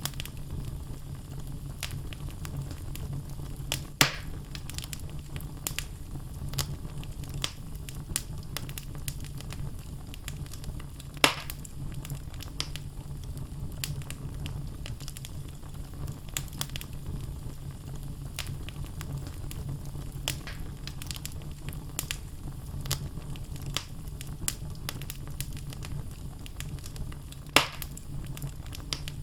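Wood fire in a fireplace burning steadily, logs crackling with scattered small snaps and three louder pops, about four, eleven and twenty-seven seconds in, over a low steady rumble of the flames.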